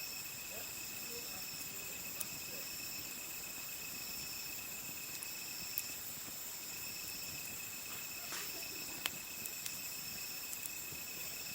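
Crickets chirring steadily in a chorus of several high, even pitches, with a few sharp, isolated pops from the wood fire.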